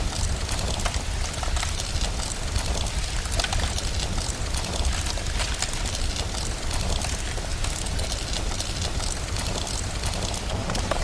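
Steady rain mixed with a crackling wood fire, with many small pops scattered throughout, over a steady low rumble.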